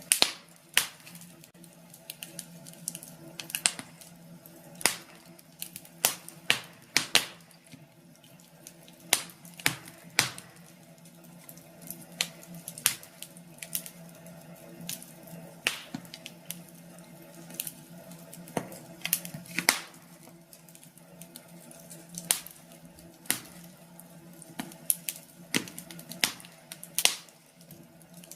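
Wood fire in a fireplace crackling, with irregular sharp pops and snaps over a faint low steady hum.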